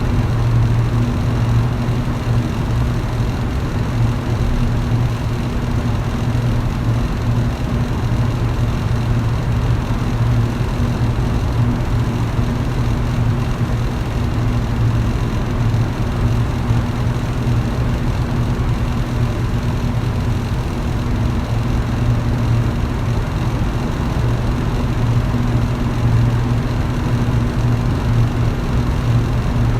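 Electric fan running at a constant speed: a low, even motor hum over a steady rush of moving air.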